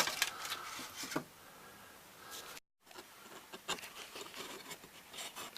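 Light clicks, taps and rubbing from balsa wood parts being handled and fitted together on a workbench. The sound cuts out completely for a moment just under three seconds in.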